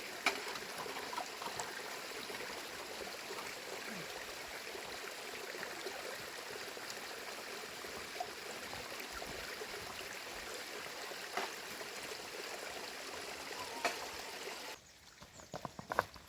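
Rainwater running steadily like a small stream, with a few knocks over it; the sound cuts off abruptly near the end.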